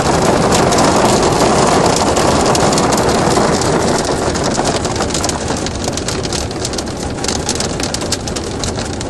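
Hailstorm: hailstones pelting down and striking hard surfaces in a dense hiss of countless sharp little clicks, easing slightly after about four seconds.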